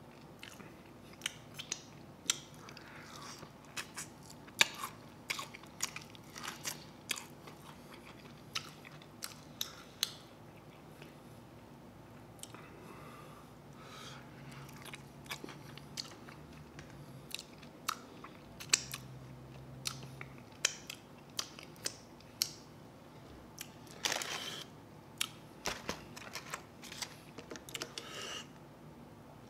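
Chewing and biting chicken wings, with scattered sharp clicks and smacks of mouth and teeth as meat is pulled off the bones.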